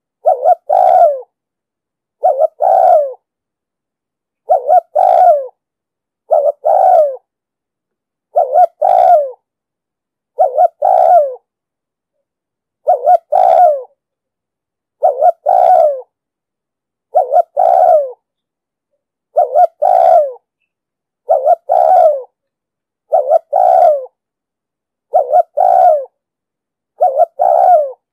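Spotted dove cooing, a deep-voiced male repeating its short multi-note song phrase about every two seconds with silence between. It is a lure recording of the kind played to draw wild doves to a trap.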